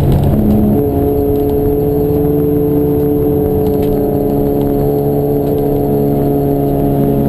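Racing car engine running at steady, high revs. The note shifts about a second in, then holds a steady pitch.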